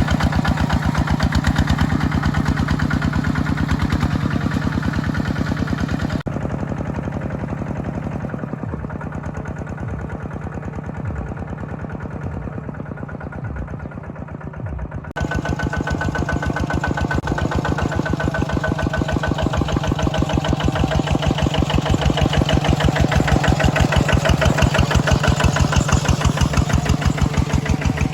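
Mini tractor engine running with a steady, even beat of firing pulses. For several seconds partway through the sound turns duller and a little quieter, then comes back full.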